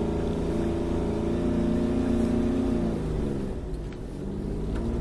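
Snowmobile engine running steadily under load in deep snow. About three seconds in it drops in pitch and eases off, then picks up again near the end.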